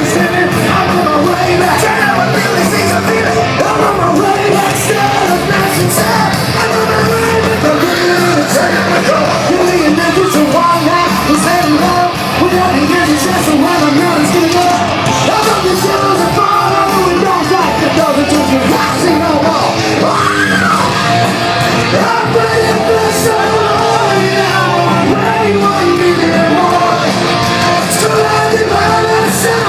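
A live rock band playing loudly, with a singer's vocals over the band, recorded from the audience.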